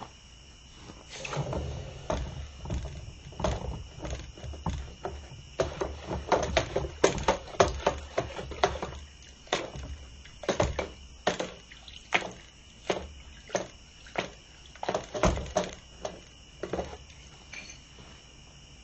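A run of irregular dull knocks and clunks, about one or two a second, from about a second in until near the end. Crickets chirr steadily throughout.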